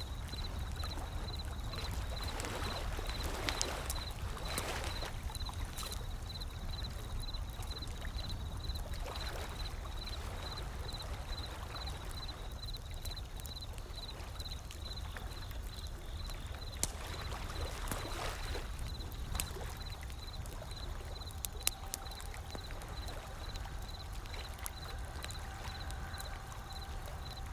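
Ocean waves washing in, in slow swells several seconds apart, over a steady low rumble of surf. Sharp pops of a crackling wood fire are scattered through it.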